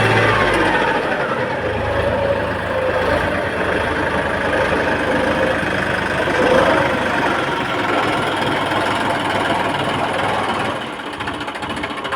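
Tractor engine running steadily, its pitch shifting within the first second; it gets somewhat quieter near the end.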